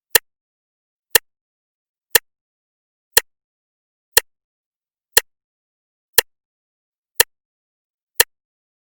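Clock ticking once a second, steady and even: nine sharp ticks with silence between them.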